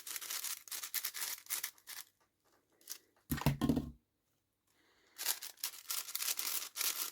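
6x6 speedcube being turned fast, its plastic layers clicking and scraping in quick runs of turns. The turning pauses about two seconds in; a dull thump comes about three and a half seconds in, and the fast turning resumes about five seconds in.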